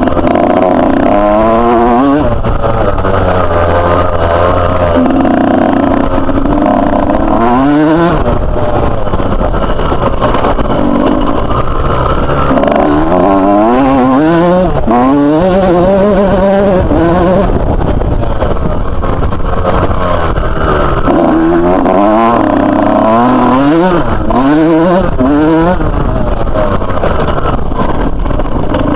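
Two-stroke motocross bike engine revving hard in repeated rising climbs, the pitch dropping back between them as the throttle is rolled off and on.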